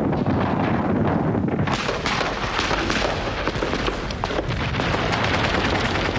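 Battle sounds: dense small-arms and machine-gun fire crackling over a low rumble of artillery, growing sharper about two seconds in.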